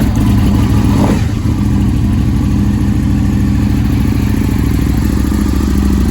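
Aprilia Tuono 1000R's V-twin engine through Akrapovic exhausts, just fired from cold. The revs flare up and drop back about a second in, then it settles into a steady, loud idle.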